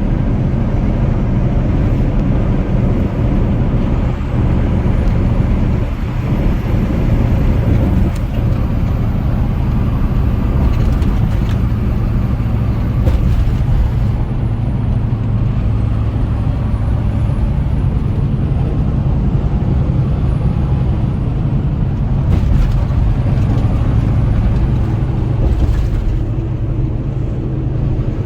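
Semi truck driving at highway speed: steady diesel engine and road noise, a constant low drone.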